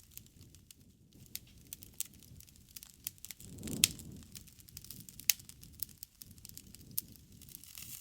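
Wood fire burning: irregular crackling with scattered sharp pops, and a low rush of flame that swells briefly about halfway through.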